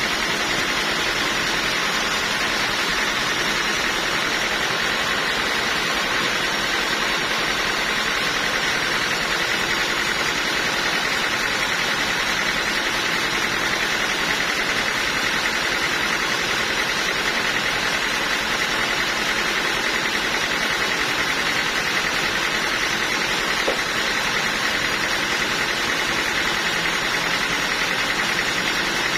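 Sawmill machinery running steadily, a constant mechanical drone without a break.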